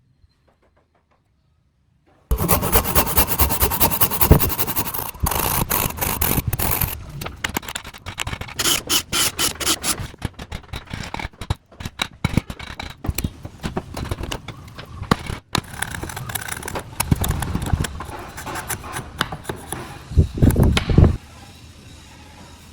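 Wood being cut or shaped by tools, with loud scraping and many sharp strokes. It starts about two seconds in and stops shortly before the end.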